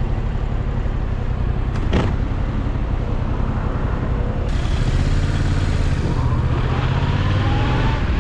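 Yamaha MT-07's parallel-twin engine running under way with wind noise on the microphone; a brief whoosh about two seconds in, then the engine pulls harder with rising pitch and the wind grows louder as the bike accelerates.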